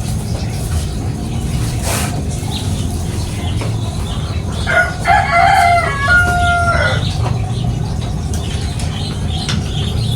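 A rooster crows once, for about two seconds, near the middle, over a steady low rumble.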